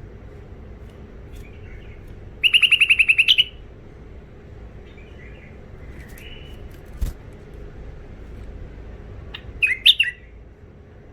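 Bulbul calling: a loud, rapid chatter of about ten notes around two and a half seconds in, a few softer chirps, and a short burst of loud notes near the end. A single click comes about seven seconds in, over a steady low hum.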